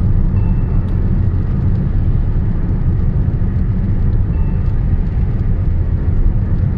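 Steady low road and wind rumble of a car driving on a highway.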